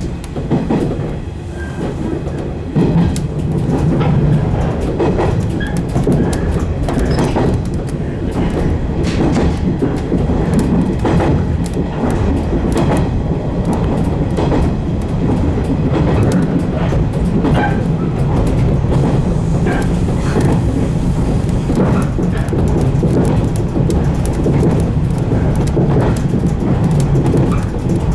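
115 series electric multiple unit running on the line, heard from on board: a steady running rumble with wheels clicking over the rail joints.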